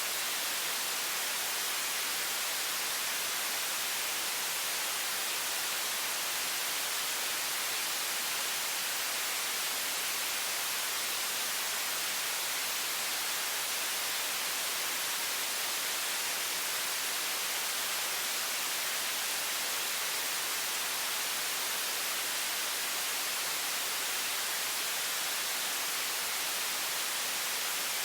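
Steady, unchanging hiss of a high-pressure water stream from a faucet, bright and thin in the low end.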